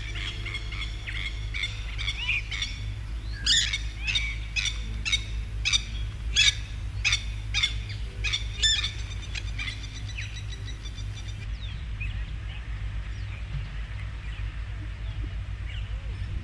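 Birds calling: a run of short, sharp, high calls at about two a second, thinning to fainter scattered calls after about eleven seconds, over a steady low hum.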